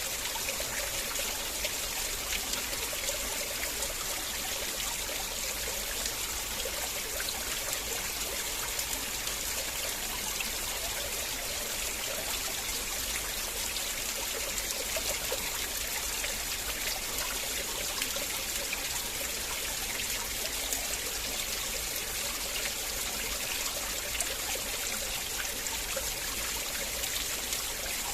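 River water flowing and trickling in a steady, even rush.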